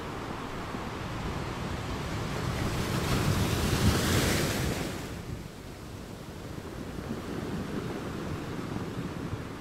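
Water rushing in a reef aquarium, a steady noise that swells to a peak about four seconds in and falls back sharply just after five seconds.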